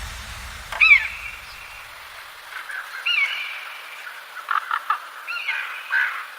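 A bird calling: three short calls that rise and fall, spaced about two seconds apart, with softer chirps in between, as background music fades out at the start.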